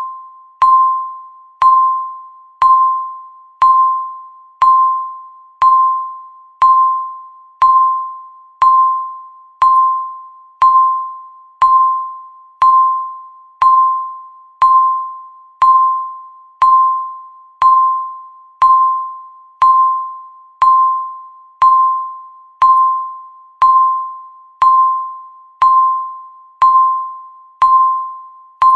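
Electronic countdown-timer beep sounding once every second, marking each passing second. Each beep is one clear tone that starts sharply and fades away before the next.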